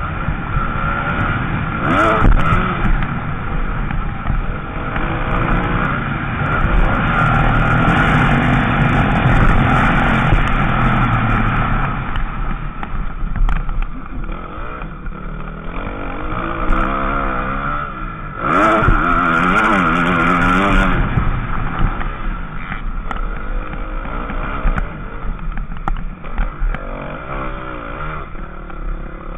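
Motocross bike engine, heard from the rider's onboard camera, revving up and falling away again and again as the bike races around a dirt track.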